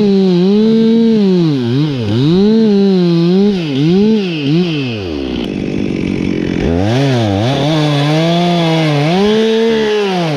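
Two-stroke chainsaw at high revs, its pitch dipping and recovering again and again as it cuts wood. About five seconds in it drops to idle, then revs back up about a second and a half later.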